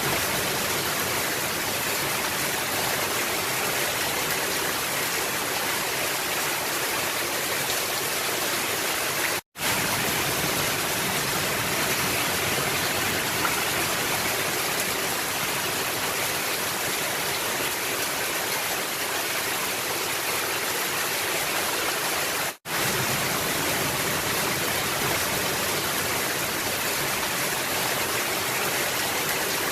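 Heavy rain falling steadily on a roof, a dense even hiss. It drops out to silence for an instant twice.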